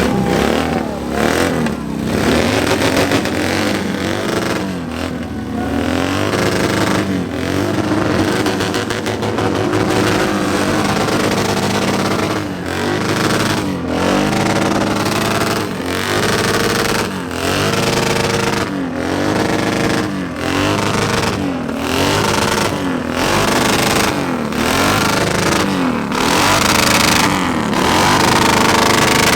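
Motorcycle engine running while riding, its pitch dipping and climbing back again over and over, about every second and a half.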